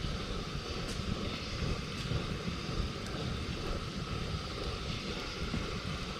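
Wood campfire burning with a few faint crackles, over a steady low rumble.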